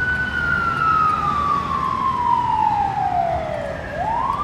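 Fire engine's siren wailing: the tone slides slowly down over about four seconds, then sweeps quickly back up near the end, over a low engine and road rumble.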